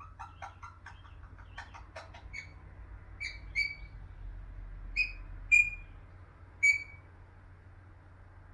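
Young Alexandrine parakeet calling: a run of quick, soft chattering notes, then six short, sharp calls, the loudest two near the end.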